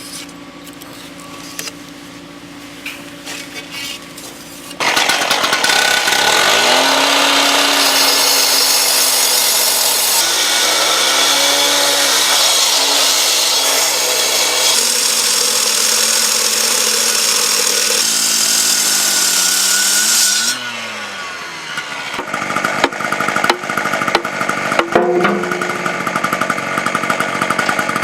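A low engine hum, then about five seconds in a motor revs up and a power tool runs at high speed with a loud harsh cutting noise for about fifteen seconds. It drops away suddenly, followed by irregular knocking and scraping.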